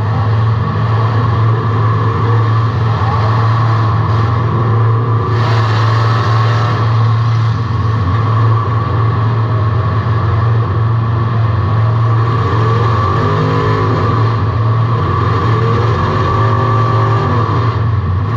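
Car engine running loud, heard from inside the car, with a steady low drone. Its pitch rises and falls several times in the second half as it revs up and down, and there is a brief rush of noise about five seconds in.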